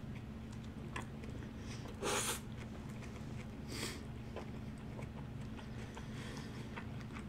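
A person chewing a mouthful of lettuce-wrapped burger close to the microphone, with faint wet mouth clicks and two short breathy bursts about two and four seconds in, over a steady low hum.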